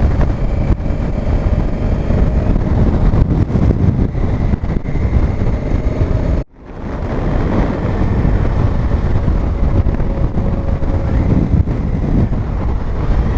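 Wind rushing over the microphone on a moving motorcycle, with the Honda Africa Twin CRF1000L's parallel-twin engine running steadily at cruising speed underneath. The sound cuts out sharply about six and a half seconds in and swells back.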